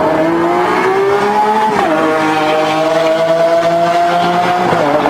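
Car engine accelerating hard through the gears: its pitch climbs, drops sharply at an upshift about two seconds in, climbs slowly again and drops at another upshift near the end.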